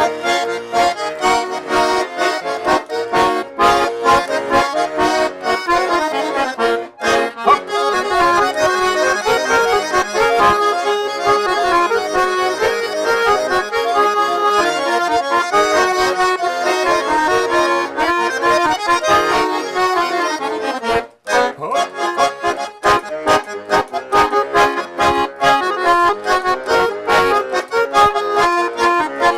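Russian garmon (button accordion) playing a Russian folk polka in steady rhythmic chords, with a momentary break about twenty-one seconds in.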